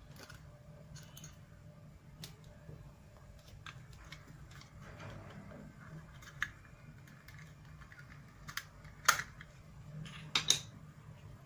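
Scattered light clicks and taps of small plastic parts being handled, with the sharpest clicks near the end, over a faint steady low hum.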